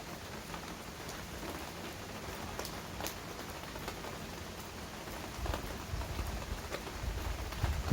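Rain falling steadily, with individual drops landing close by as sharp ticks. An uneven low rumble comes in about two-thirds of the way through.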